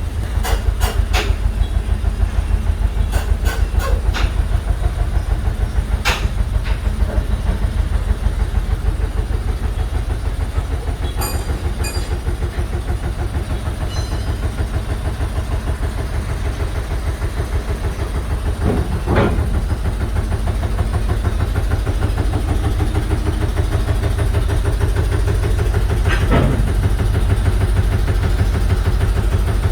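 Heavy engine idling with a steady, rapidly pulsing low throb, with a few sharp clicks and two louder knocks about 19 and 26 seconds in.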